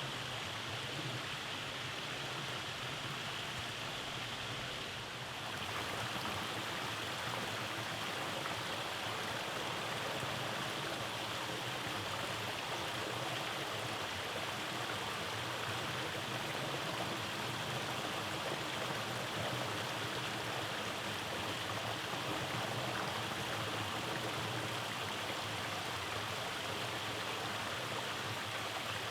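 Rainforest stream water rushing and cascading over rocks in a steady, even wash. About five seconds in, the sound steps up slightly louder and brighter.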